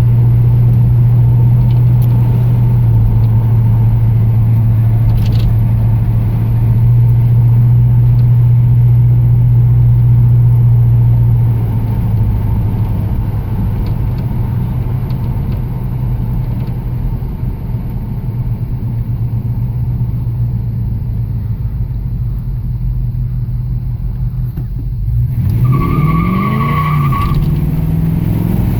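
The 1969 Pontiac Firebird's rebuilt Pontiac 400 V8 runs at a steady cruise and eases off about twelve seconds in. Near the end it revs up sharply under hard acceleration, with a brief high tyre squeal as the posi rear end breaks traction.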